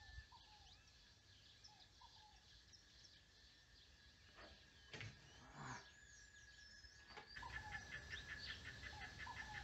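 Near silence with faint bird calls: short down-slurred chirps every couple of seconds and a few higher whistled notes, over a steady thin high tone that turns into a fast pulsing trill in the last two seconds. A few soft knocks come in the middle.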